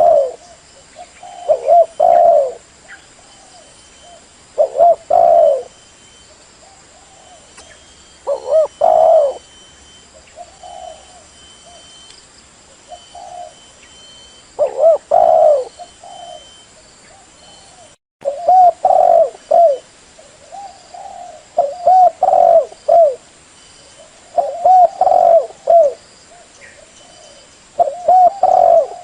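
Spotted dove cooing: phrases of a few low, rounded notes, repeated every two to three seconds.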